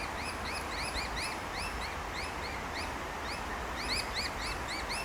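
A small bird calling over and over in quick short notes that rise and fall, about three or four a second, over a steady background hiss.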